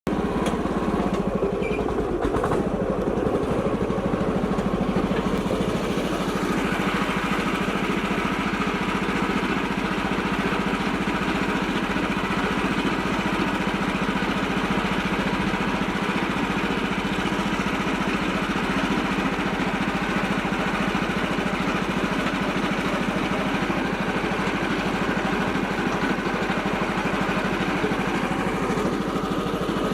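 Massey Ferguson tractor engine running steadily.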